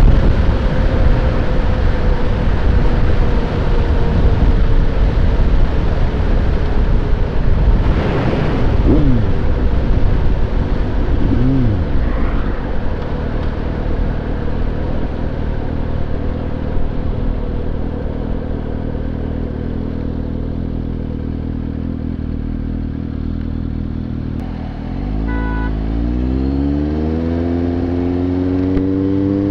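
Suzuki GSX-S750's inline-four engine under way with wind noise. Its note falls slowly as the bike eases off, then holds steady. Near the end it dips briefly and then rises in pitch as the bike accelerates away.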